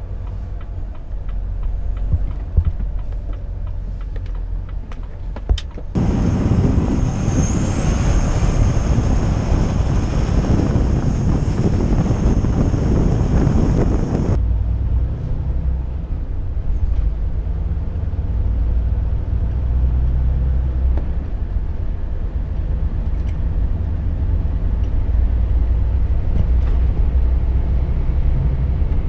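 Volvo truck on the move: a steady low engine and road rumble. About six seconds in, a loud rushing hiss starts suddenly and then cuts off after about eight seconds.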